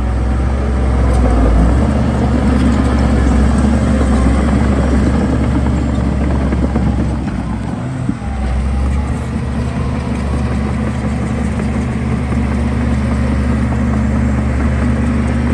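Heavy diesel engine of earthmoving machinery running steadily under load, with a short dip in level about halfway through and a brief knock just after it.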